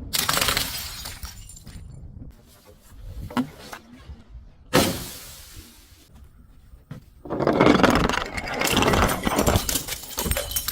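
Things being crushed and breaking: a stretch of crackling that dies away at the start, a sudden sharp crack about halfway, and a longer loud spell of dense crunching and breaking near the end.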